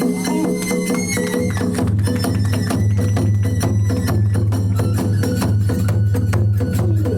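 Kagura festival music: fast, steady drumming and clashing hand cymbals in a rapid even beat, with a high bamboo flute line over it. A steady low drone comes in about a second and a half in.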